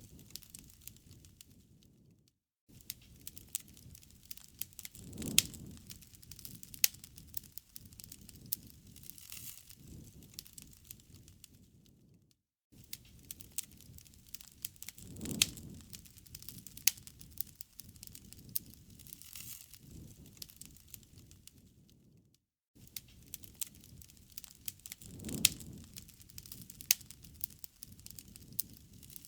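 Wood campfire crackling, with sharp pops and snaps over a low rumble of burning. The same stretch of about ten seconds repeats three times, with a brief moment of silence between repeats.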